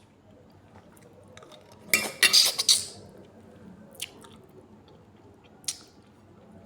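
A metal utensil clattering and scraping against a cooking pot: a burst of clinks about two seconds in, then two single clicks.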